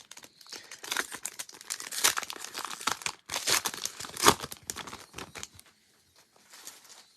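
A foil trading card pack wrapper being torn open and crinkled, a dense run of crackling with a sharper snap partway through, dying down to a few faint rustles near the end.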